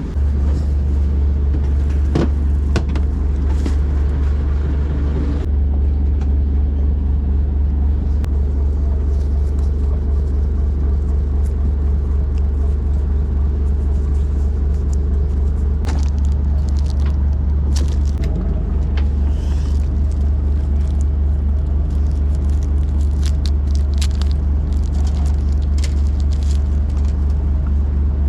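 A boat's engine running steadily, a loud, even low rumble, with small clicks and knocks now and then.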